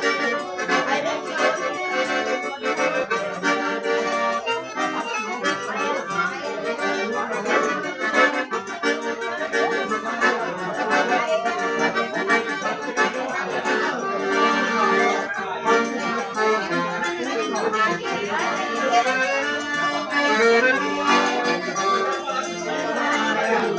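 Accordion (sanfona) playing a traditional Brazilian tune, with continuous sustained chords and melody.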